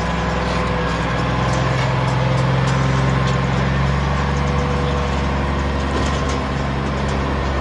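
Semi truck engine idling steadily with a low, even hum.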